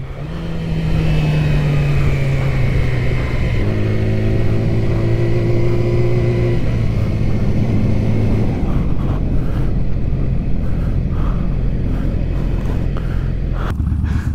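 Yamaha R6 sport bike's inline-four engine running at low revs as the bike slows and pulls in, over wind noise. The engine note drops in steps about four seconds in and again near the end, where it settles toward idle as the bike stops.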